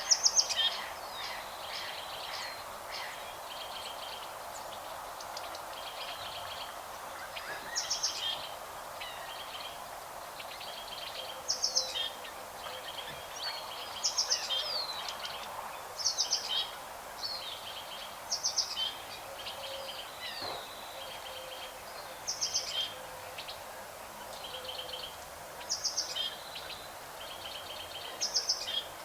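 Birds chirping and singing, with one bird repeating a short, high trilling phrase every two to three seconds and other chirps in between, over a steady background hiss.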